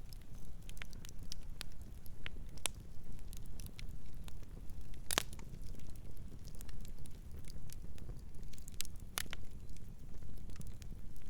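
Campfire crackling: irregular sharp pops and snaps over a low steady rumble, with one louder pop about five seconds in.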